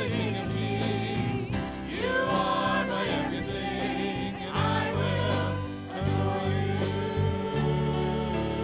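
A worship song: voices singing held, wavering phrases over a steady instrumental accompaniment with sustained bass notes.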